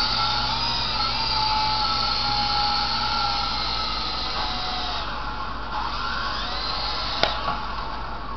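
Sky Rover toy remote-control helicopter's small electric motors and rotors whining steadily, the pitch wavering slightly as the throttle changes. A single sharp click about seven seconds in.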